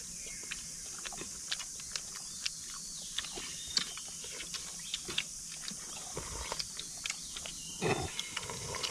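People eating momos in a mukbang, with irregular wet chewing and smacking clicks from several mouths. A slightly longer, louder eating sound comes near the end, all over a steady high hiss.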